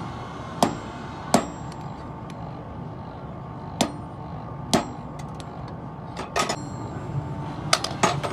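Hammer blows on hot steel on an anvil during hand forging: about eight separate, irregularly spaced strikes with a short metallic ring, over a steady low background noise.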